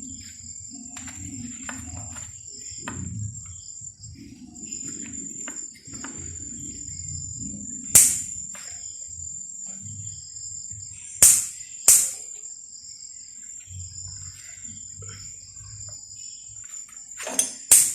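Steady high chirring of crickets, broken by a few sharp metallic clinks of hand tools on the scooter's parts: one about eight seconds in, two close together a few seconds later, and a double clink near the end.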